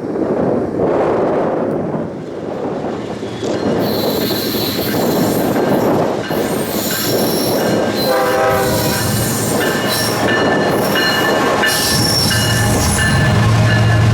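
Freight train approaching: wheels squeal with high thin tones from about four seconds in, a diesel locomotive's air horn sounds about eight seconds in, and the locomotive's low engine rumble builds near the end. Wind buffets the microphone at the start.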